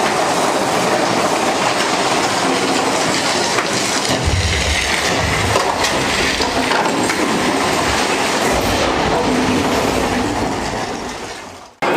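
Mine-train roller coaster clattering and rattling along its track, with deep low rumbles twice. The sound fades away near the end.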